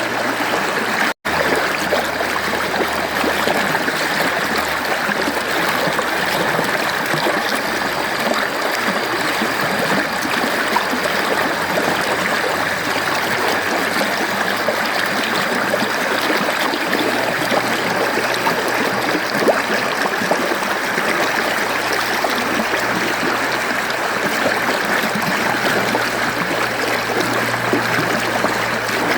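Mountain stream flowing and babbling steadily, with a split-second gap of silence about a second in.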